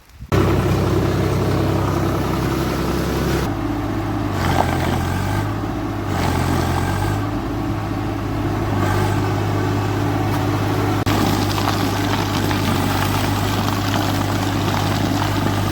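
Swaraj 744 FE tractor's diesel engine running hard, starting abruptly, its pitch stepping up and down several times in the first seven seconds, then holding steady.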